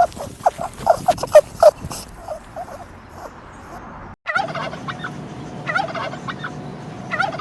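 A dog barking in a quick series of barks for about two seconds, trailing off. After a brief cut about four seconds in, a turkey gobbles in three bouts.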